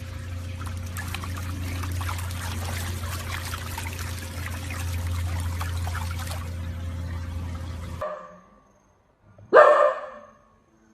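A steady noisy hiss with a low hum for about eight seconds, then a dog barks once, loudly, near the end.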